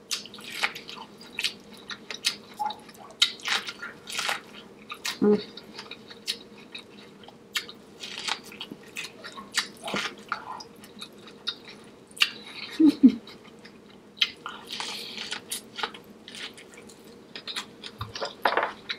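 Close-miked eating: wet chewing and lip smacking on saucy seafood-boil food, a run of irregular sharp smacks and clicks.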